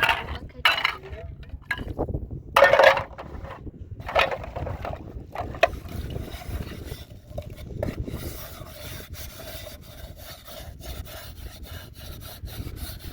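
Rubbing and scraping: a few separate scrapes, then from about halfway a quicker, steadier run of short strokes.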